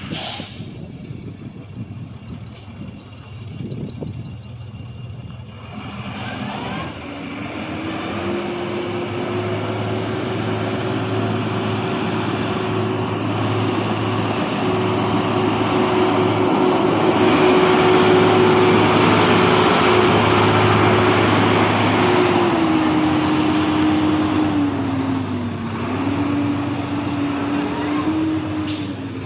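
Diesel engine of a HOWO tractor truck running. About six seconds in its pitch rises and then holds steady as it grows louder, before dropping and wavering near the end.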